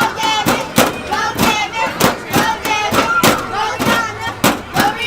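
A child's high voice chanting or singing a rhythmic routine over sharp claps or stomps, about two to three strikes a second in a steady beat.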